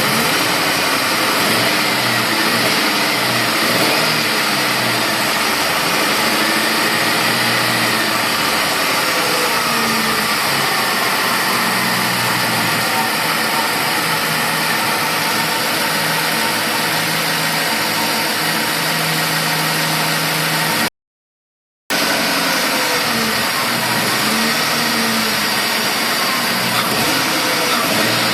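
An engine running steadily, its pitch shifting slightly now and then. About three quarters of the way through, the sound cuts to total silence for about a second, then returns unchanged.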